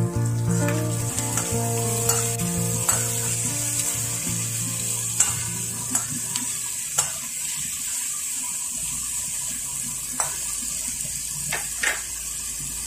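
Sliced bell pepper, carrot and chicken liver sizzling as they are stir-fried in a pan, with a steady hiss. The spatula clicks and scrapes against the pan several times, most often in the second half. Quiet background music fades out around the middle.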